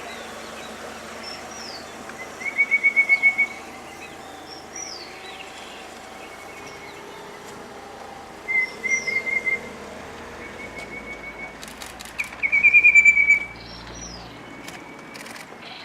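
Birdsong: three short, rapid trills of evenly repeated notes, each lasting about a second, are the loudest sounds, with high, thin, down-slurred notes repeated every few seconds between them.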